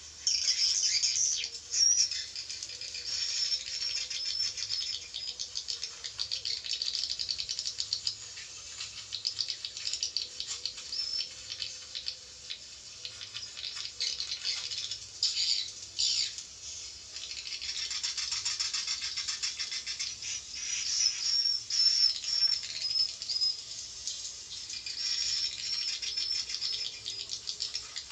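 Swiftlets twittering: dense, continuous high chirps and rattling trills from an edible-nest swiftlet lure call, the kind played to draw swiftlets in.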